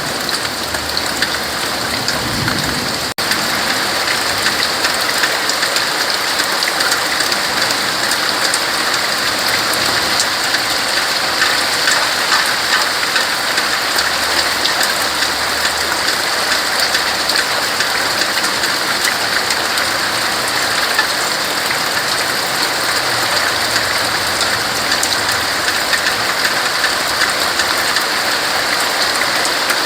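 Steady rain falling on tree leaves, a dense, even patter that keeps up throughout, with a brief dropout about three seconds in.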